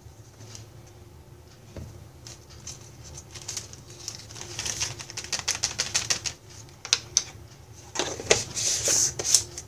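A measuring spoon scooping cornstarch and tapping against its container and the edge of a plastic baggie: a run of quick, irregular light clicks and taps, sparse at first and busier and louder toward the end.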